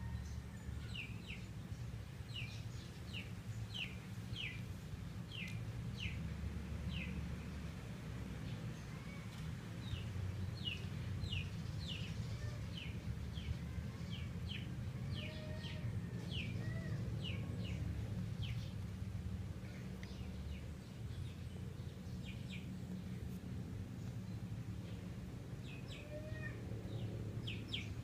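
Birds chirping: many short, falling chirps, about one or two a second, over a steady low rumble.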